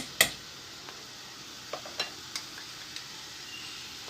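Chopped tomatoes and garlic in hot oil sizzling steadily in a pan, with a sharp tap of a utensil against the pan just after the start and a few lighter taps as it is stirred.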